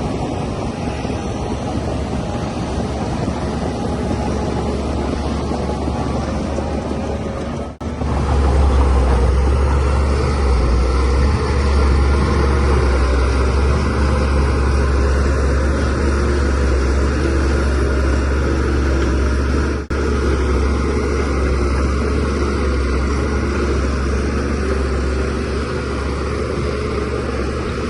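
Bulldozer diesel engine running steadily under load with a deep drone. It drops out for a moment about eight seconds in and comes back louder, with another brief dip later on.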